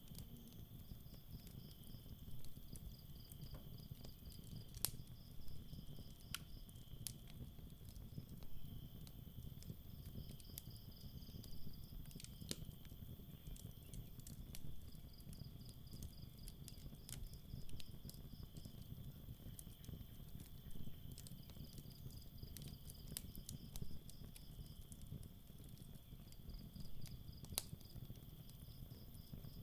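Campfire crackling with a low rumble and scattered sharp pops, under night crickets chirping in short pulsed runs every few seconds over a steady high insect trill.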